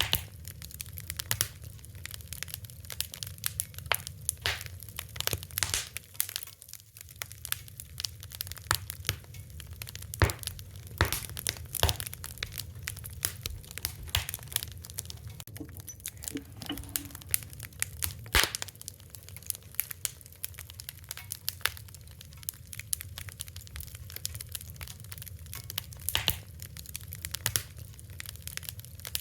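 Wood fire crackling, with many irregular pops and snaps over a steady low rumble.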